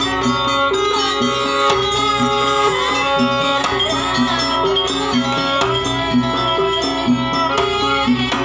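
Traditional Javanese jaranan music played live: hand drumming under pitched melodic instruments in a repeating pattern, with some notes bending in pitch.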